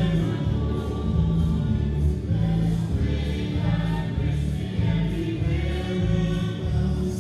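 A choir singing a gospel song over a sustained low accompaniment.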